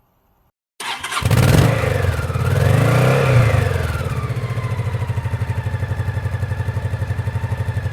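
Motorcycle engine revving once, its pitch rising and falling, then settling into a steady, pulsing idle; the sound cuts in and out abruptly.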